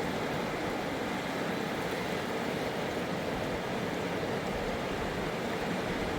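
Fast mountain river rushing over rocks, a steady, unbroken noise of white water.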